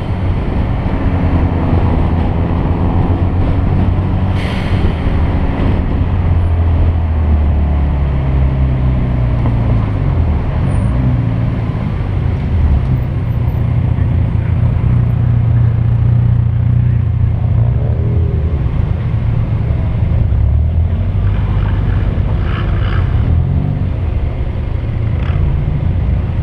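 Car engine running hard, its pitch rising and falling several times as the car accelerates and changes gear.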